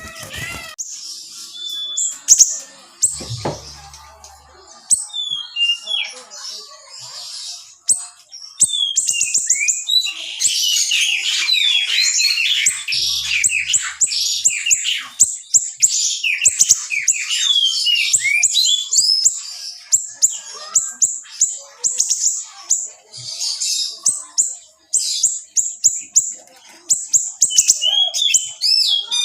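Small songbird (siri) singing a fast, dense song of sharp chirps and trills, loosely spaced at first and a continuous rapid outpouring from about nine seconds in, with short breaks.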